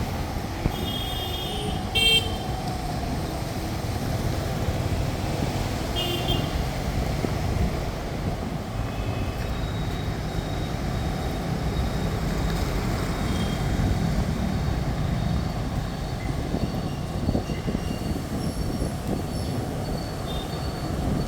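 Steady road traffic rumble with short vehicle horn honks, the clearest about one, two and six seconds in, and fainter ones later.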